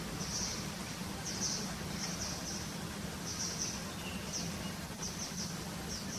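A bird chirping in short, high-pitched clusters about once a second, over a steady low hum.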